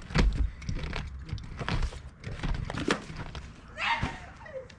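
A run of knocks and thuds from roof teardown debris, pieces of wood and roofing being pried up and dropped, the loudest right at the start. A short rush, like something scraping or sliding, comes near the end.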